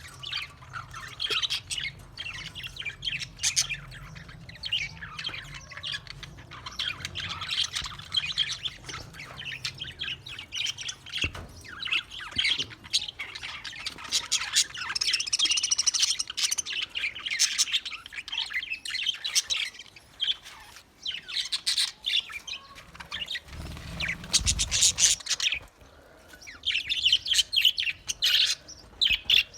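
Budgerigars chattering and warbling: a dense, unbroken run of quick high chirps with the odd squawk from several birds.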